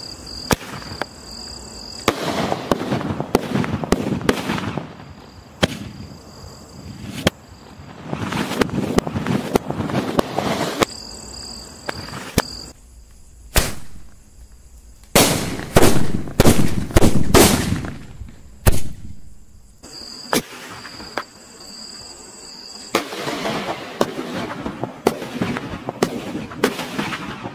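Sky-shot aerial firework combo going off: spells of whooshing hiss as the shots launch, each with sharp cracks. About halfway through, a rapid cluster of very loud bangs as the five attached sutli bombs explode. Crickets chirp faintly in the quieter gaps.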